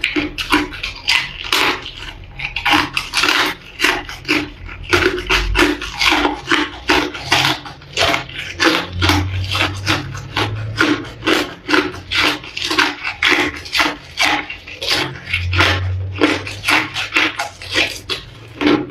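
Ice being bitten and chewed close to the microphone: a steady run of crisp crunches, several a second, with no pause.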